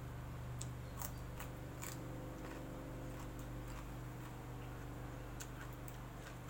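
Eating sounds: a handful of short sharp clicks and crunches, several in the first two seconds and more a little after five seconds in, over a steady low hum.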